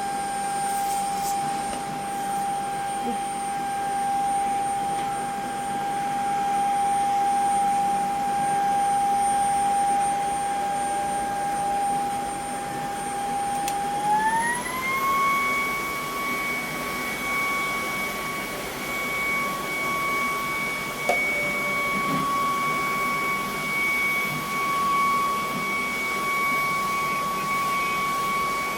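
ILIFE G80 cordless stick vacuum running, its motor giving a steady whine over a rush of air. About halfway through, the motor speeds up and the whine rises smoothly to a higher pitch, then holds steady.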